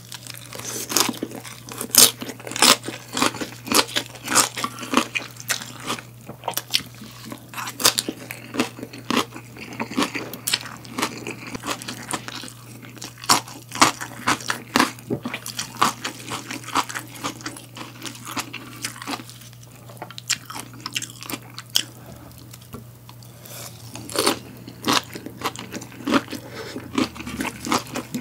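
Close-miked chewing and crunching of a crisp vegetable salad (lettuce, cucumber, bell pepper), in quick irregular crunches that thin out for a few seconds past the middle, over a low steady hum.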